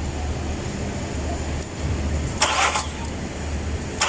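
A Nissan Pathfinder's starter motor briefly cranking the engine about two and a half seconds in, over a low pulsing hum. It is cranking without starting: a check shows no fuel supply, which points to the fuel pump.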